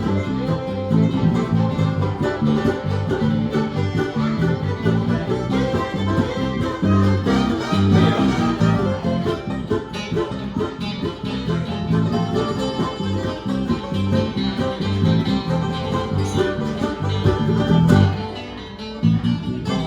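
Bluegrass band playing an instrumental break between verses, acoustic string instruments picked and bowed at a steady tempo.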